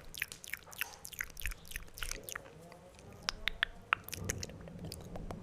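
Wet mouth sounds: a quick run of tongue clicks and lip smacks, several a second.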